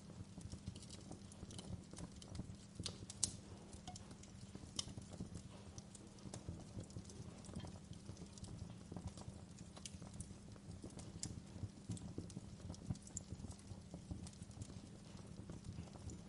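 Wood fire crackling in a fireplace: a steady low rumble of the flames with scattered sharp pops and snaps, one louder pop about three seconds in.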